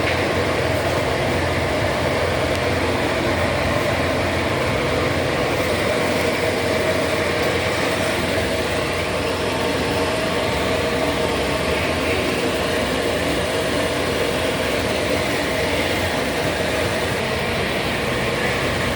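Steady, unchanging machine hum, like a running fan or motor, with no distinct events.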